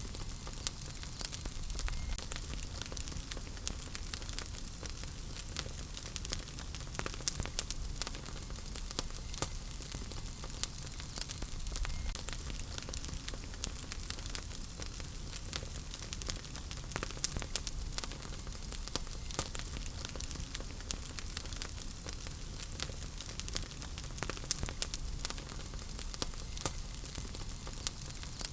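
Wood fire burning in a fireplace: a steady hiss of flames with frequent sharp, irregular crackles and pops from the burning logs.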